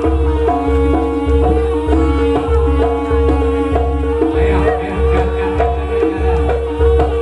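Live jaranan music: drums keep a steady heavy low beat under a held tone and short, stepping melodic notes.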